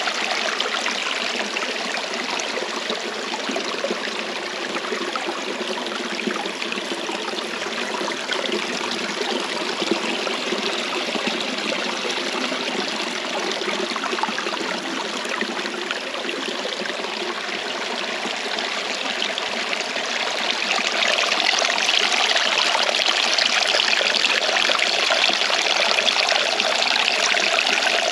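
Flowing water rushing steadily, a stream or waterfall, growing a little louder about two-thirds of the way in.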